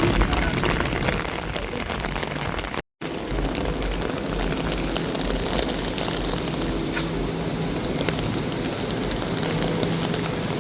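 Rain falling steadily, with the low, steady hum of a vehicle engine running underneath. The sound cuts out for a moment about three seconds in.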